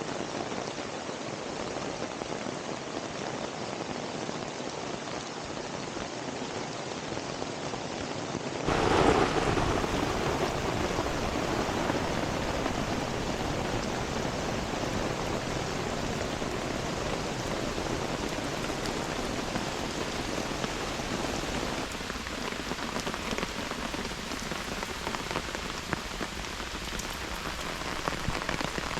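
Heavy rain falling steadily, drops pattering on surfaces. About nine seconds in it turns abruptly louder and fuller, then holds steady.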